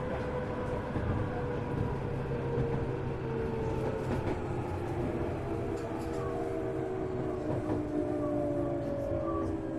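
Tokyu 1000 series electric train heard from inside the car: the running rumble of wheels on rail, with the traction motor whine in several tones slowly falling in pitch as the train slows.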